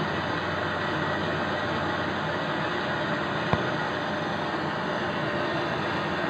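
Steady rushing hiss of air blowing, with one sharp click about three and a half seconds in.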